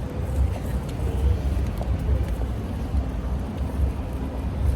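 Street background noise: a steady low rumble of passing road traffic.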